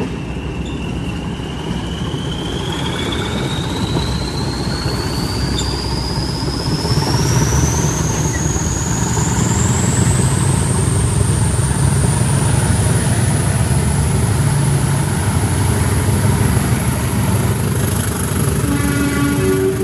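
Class 20 diesel locomotive 20303 working under power: its English Electric eight-cylinder diesel engine gives a heavy, steady rumble while the turbocharger whistle climbs steadily in pitch for about twelve seconds, then holds high.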